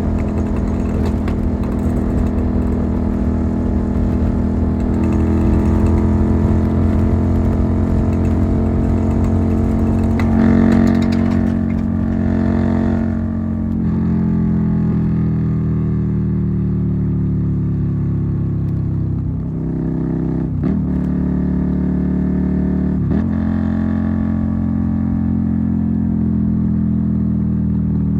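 Suzuki SV650's V-twin engine pulling on the road: the revs climb for the first ten seconds or so, then ease off and fall slowly. There are brief breaks in the note a few times in the second half, like gear changes.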